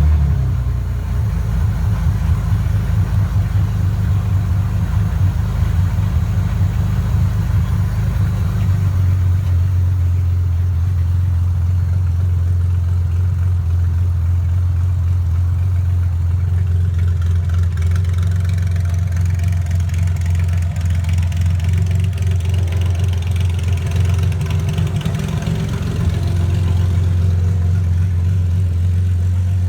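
1974 Porsche 911 RSR's air-cooled flat-six idling steadily as it warms up after a cold start.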